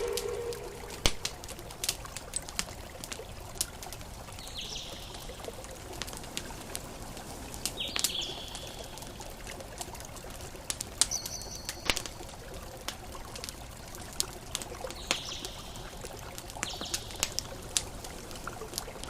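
Campfire crackling with sharp irregular pops over a steady wash of ocean waves. A few short high chirps come every three or four seconds.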